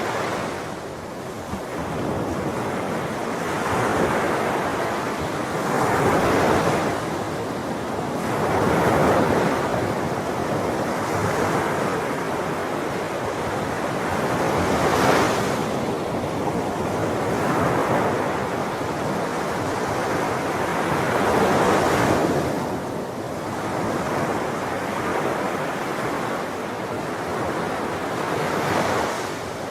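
Ocean waves breaking on a shore, a steady wash of surf that swells and falls back every few seconds, with a louder break about halfway through.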